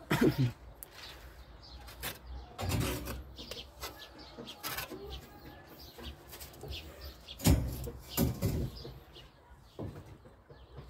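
Scattered knocks and scrapes from hand masonry work: stones and fire bricks being set in tile adhesive, striking and shifting against each other at irregular intervals. Birds chirp in the background.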